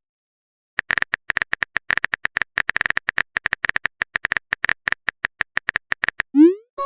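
Phone-keyboard typing sound effect: quick, irregular key-tap clicks, several a second, starting about a second in and stopping shortly before the end.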